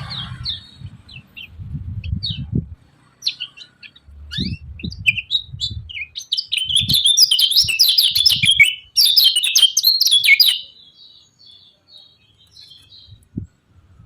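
Kecial kuning (yellow white-eye) singing: scattered sharp chirps build into a fast, dense twittering burst of song about halfway through, then trail off into a few faint notes. A low rumble runs underneath in the first half.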